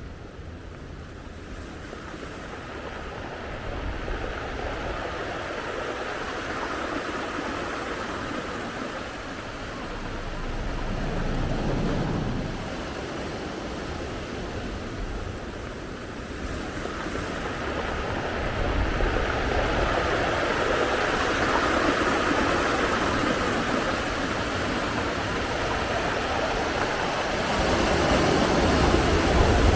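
Steady rushing outdoor noise that swells and eases every several seconds, with a low rumble underneath.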